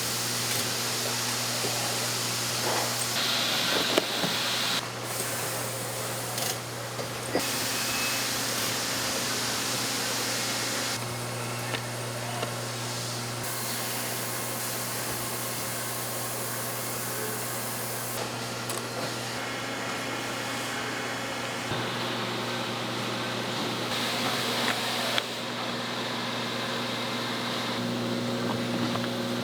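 Factory assembly-line machinery: a steady low hum, with a hiss that cuts in and out every few seconds and a few small clicks and knocks.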